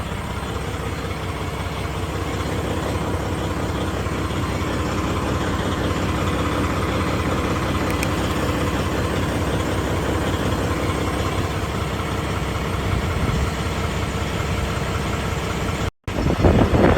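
A vehicle engine running steadily at idle, with a low rumble. Near the end it cuts out for an instant and a louder sound follows.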